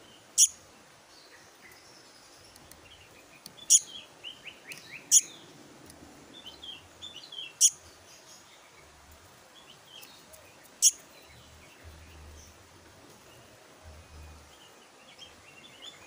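Juvenile black-naped monarch (kehicap ranting) calling. It gives five sharp, high chirps spaced a few seconds apart, with a run of softer, quick chittering notes between the second and third.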